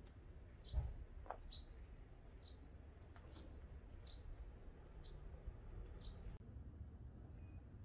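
A small bird chirping over and over: short, high, downward-falling chirps about once a second, faint against a low background hum, stopping about six seconds in. A single low thump about a second in.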